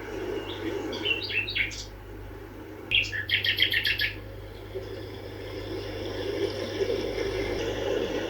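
Small songbirds chirping: a few short chirps about a second in, then a quick run of rapid notes around three seconds in, over a steady low background hum.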